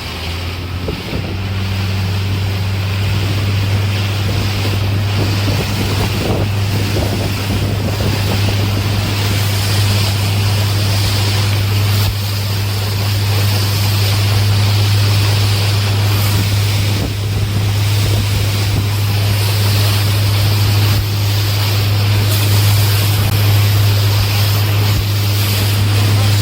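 Small motorboat's engine running steadily under way, a low hum that grows louder over the first second or two and then holds, with wind buffeting the microphone and the rush of water against the hull.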